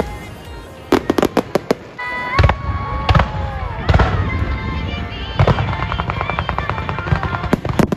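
Aerial fireworks bursting: a quick cluster of sharp bangs about a second in, heavier booms a few seconds in, then a stretch of rapid crackling from crackle stars in the second half.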